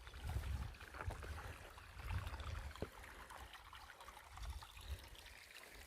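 Footsteps along a forest trail: irregular soft thuds with light crackling of twigs and undergrowth underfoot.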